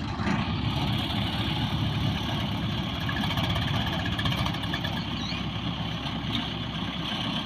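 Combine harvester running steadily, its engine and machinery making an even, continuous noise.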